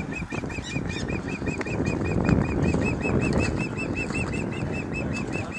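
A bird calling a long, even series of short chirps, about five a second, over a steady low rumble.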